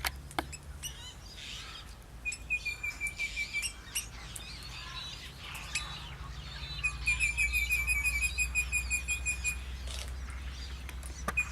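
Small birds chirping, with two fast trains of rapid, repeated high chirps, one about two seconds in and one near the middle, over a steady low hum.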